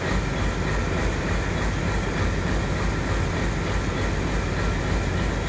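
Train running on rails: a steady, loud rumble and rattle of wheels and coaches that carries on without a break.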